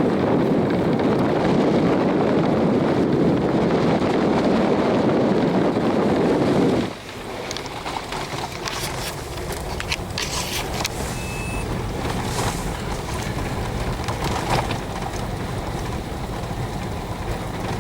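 A car driving along a rough road, heard from close by: a loud, steady rumble for about seven seconds that suddenly drops to quieter running noise, with a few short knocks and rattles after that.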